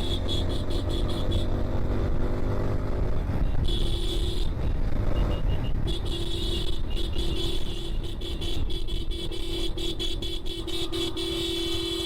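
Motorcycle riding with engine and wind rumble, and a vehicle horn sounding in long held blasts, with short breaks, from about four seconds in.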